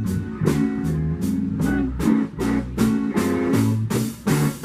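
Blues band playing between sung lines: electric guitar over a walking bass line and a steady drum beat.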